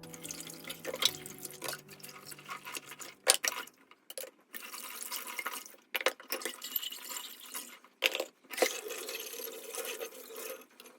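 Water running and splashing in short spells, stopping and starting several times, with a few sharp clicks between.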